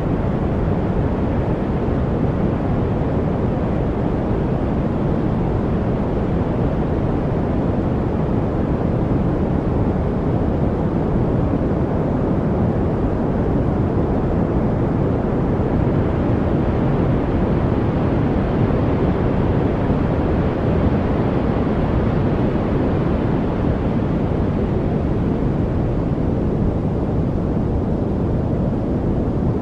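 Steady masking noise of the kind sold as white noise for studying: a deep, even hiss with most of its weight low down, no birds or separate events, growing slightly brighter about halfway through and settling back.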